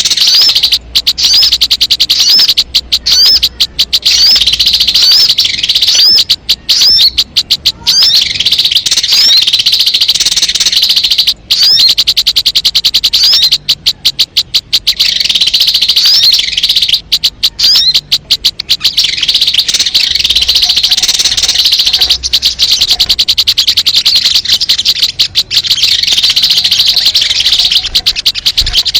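Sogon (sogok ontong) bird calls from a lure recording: loud, high-pitched chirps repeated in fast, unbroken runs, with short breaks every few seconds.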